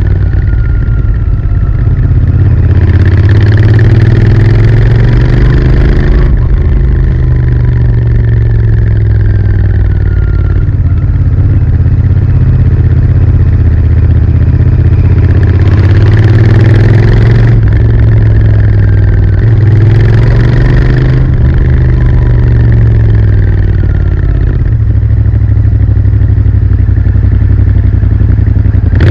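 Royal Enfield Interceptor 650's parallel-twin engine running loud through its stock exhaust. Its pitch rises and falls several times as the throttle is opened and closed.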